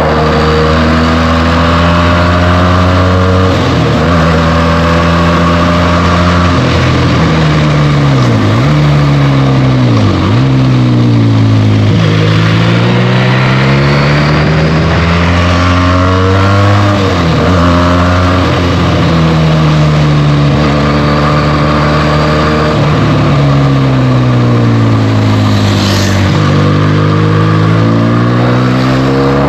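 Benelli TNT 300's parallel-twin engine through its stock exhaust, revving up and down as the bike is ridden through the gears. The pitch climbs steadily, then dips sharply and recovers about half a dozen times, at each gear change or throttle lift.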